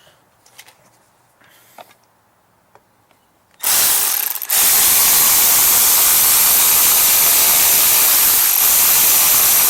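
A few faint clicks, then about 3.5 seconds in a cordless power tool starts running steadily, stopping briefly just after it starts, as it drives a 5/16 bolt into the mower's carburetor bracket that is struggling to catch its thread.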